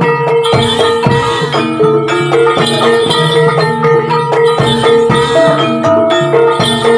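A Javanese gamelan ensemble plays the accompaniment for a kuda lumping dance. Ringing metallophone and gong tones sit over a steady held pitch, punctuated by low drum strokes that drop in pitch.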